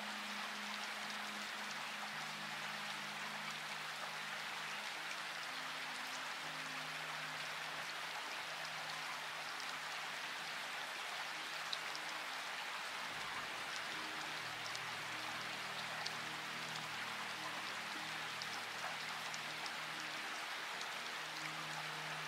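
Steady rain falling, an even hiss with scattered drops ticking, with soft low held music notes that shift slowly underneath.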